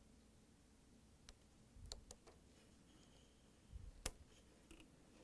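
Faint clicks and light knocks of plastic parts being handled as a washer's control panel wire connector is plugged in, with a sharper click about four seconds in; otherwise near silence.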